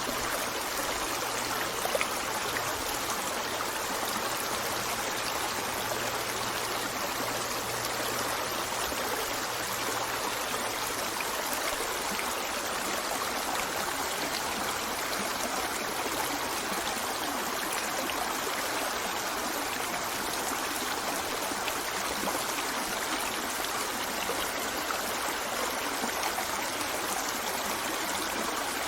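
Stream running steadily, an even rushing and trickling of flowing water.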